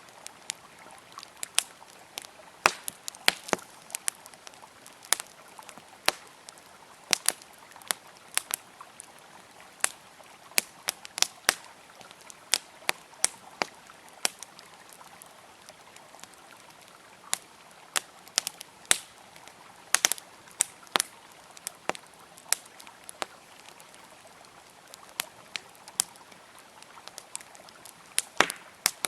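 Wood campfire crackling, with sharp irregular pops and snaps coming in clusters, over the steady rush of a flowing river.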